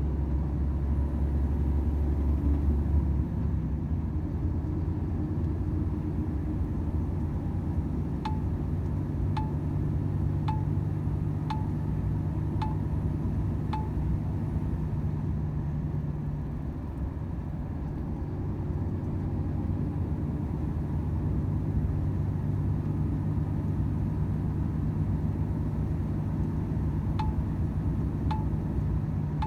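Volvo FH 500 truck's engine droning steadily at cruising load. A turn-signal indicator ticks about once a second, six times in the middle and again a few times near the end.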